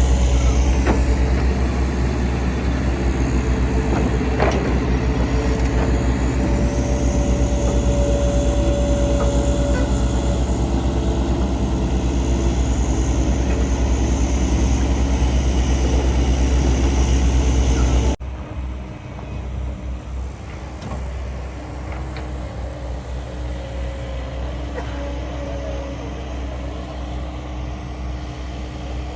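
Heavy diesel engine of earthmoving machinery running steadily with a fast, even throb. About 18 seconds in the sound cuts off abruptly to a quieter engine running.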